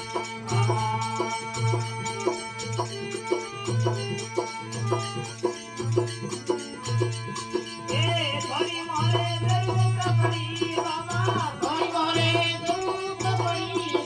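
Rajasthani desi bhajan music with veena accompaniment: a steady drum beat of about one and a half strokes a second with clicking hand percussion. A voice comes in singing about eight seconds in.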